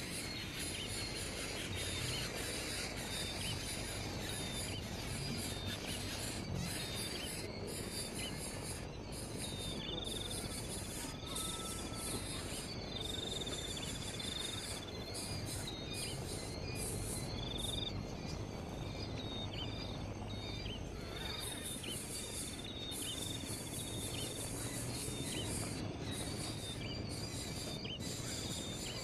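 Outdoor insect chorus, a dense high buzzing that pulses and briefly drops out now and then, with many short, high bird chirps repeated throughout over a steady background hiss.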